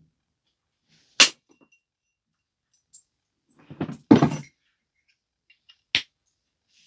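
Flint biface being knapped: a sharp crack of a flake coming off about a second in, and another near the end. In between is a rougher, duller burst of scraping and handling noise lasting about a second.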